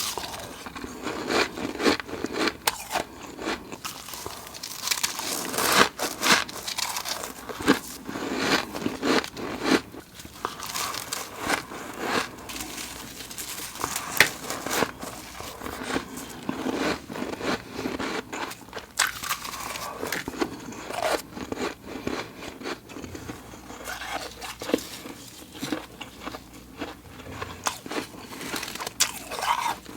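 Ice being bitten and chewed close to the microphone: a dense, irregular run of crunches.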